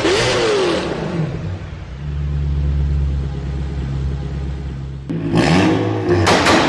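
Tuned 2.0 TSI turbo four-cylinder of a Seat Altea Freetrack, on an Etuners stage 2 map with crackles, revving: a rev falls away at the start, the engine holds steady revs for about three seconds, then a sharp blip about five seconds in falls back with a few loud exhaust pops near the end.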